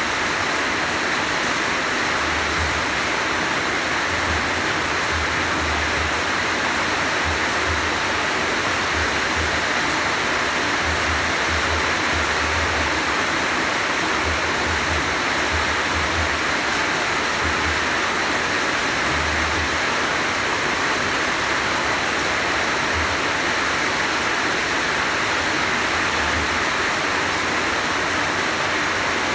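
Heavy rain falling steadily, a dense even hiss, with short low rumbles coming and going.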